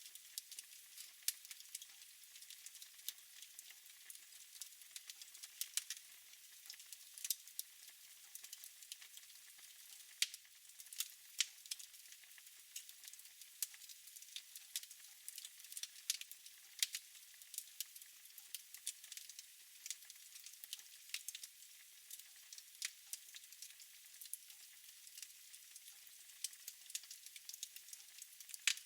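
Fire in a fireplace crackling: a soft steady hiss with frequent sharp, irregular pops.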